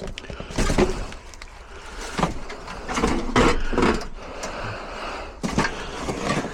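Rummaging through tools and spray cans in a work van: irregular knocks, clatters and scraping.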